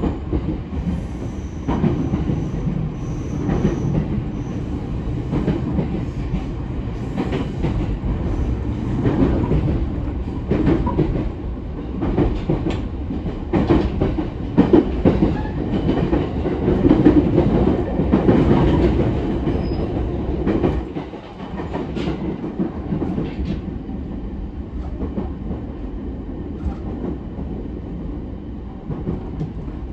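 Running noise heard inside a JR E231-0 series commuter train car: a steady rumble of wheels on rail with repeated clacks from the wheels. The sound drops and gets quieter about two-thirds of the way through.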